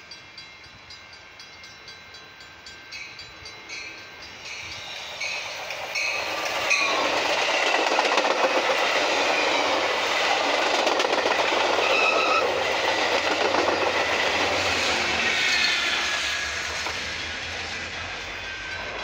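Metra commuter train passing close by, with bilevel passenger cars. The noise grows over the first six or seven seconds, stays loud for about ten seconds as the cars go by, then fades as the train moves away.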